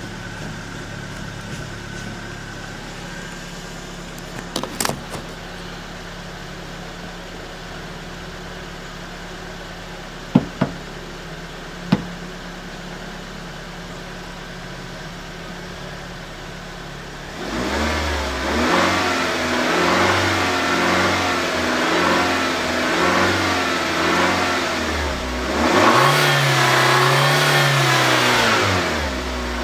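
2004 Nissan Sentra's 1.8-litre QG18DE four-cylinder idling steadily, with a few sharp clicks in the first half. About two-thirds of the way in it is revved repeatedly, the engine note rising and falling, with the highest rev near the end.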